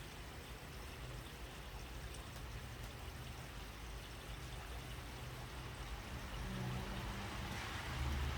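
Steady rain falling, with water running and pouring; a low rumble swells near the end.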